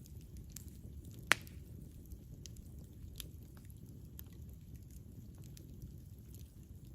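Campfire crackling: scattered small pops and snaps over a steady low rumble, with one loud sharp pop about a second in.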